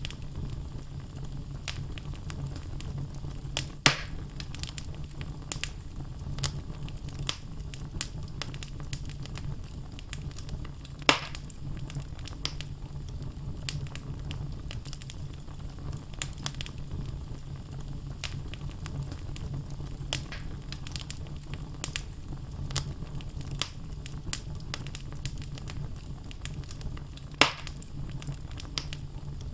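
Wood fire burning in a fireplace: a steady low rumble of the flames with frequent small crackles from the logs, and three louder pops spread through.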